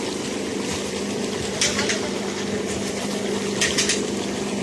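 Steady mechanical hum of a running motor, with a short burst of rapid clicks about every two seconds.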